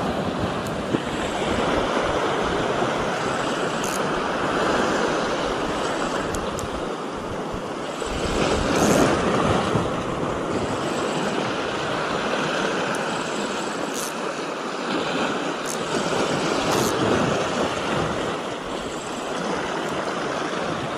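Sea waves washing onto the beach: a steady surf wash that swells louder about nine seconds in, with a few faint clicks here and there.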